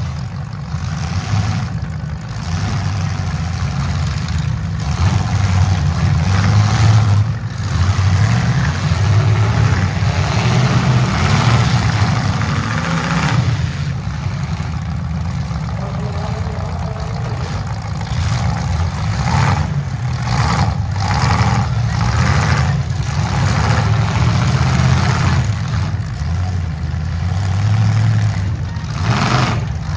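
Engines of several small demolition-derby cars running and revving together on a dirt arena.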